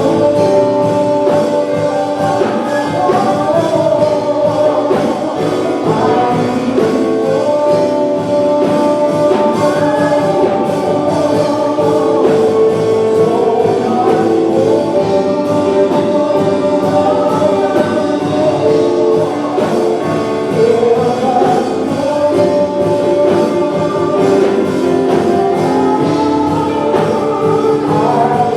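Live gospel worship music: a choir and congregation singing over band accompaniment with a steady beat.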